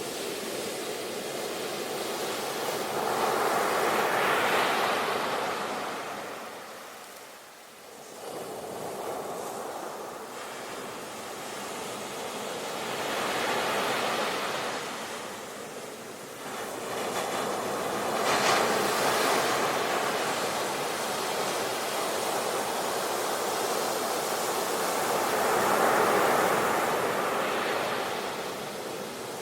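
Ocean waves breaking and washing ashore, the surf swelling and ebbing in slow surges every several seconds, with one sharper crash about two-thirds of the way through.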